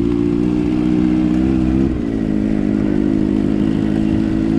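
Motorcycle engine running steadily, its pitch dipping briefly about two seconds in before settling again.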